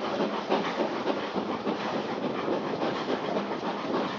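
Railway carriage running along the line, its wheels clattering over the track in a steady rumble, heard through an open carriage window.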